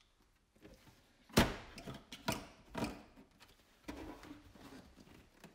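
Hard plastic tool storage case being handled: one sharp knock about a second and a half in, then a few lighter clicks and knocks and a soft rustle.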